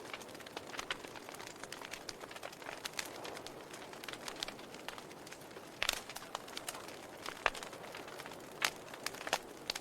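Burning wood logs in a fireplace crackling, with a steady soft hiss and irregular sharp pops, a few louder ones in the second half.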